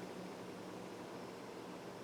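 Quiet room tone: a faint steady hiss with a low hum, in a pause between speech.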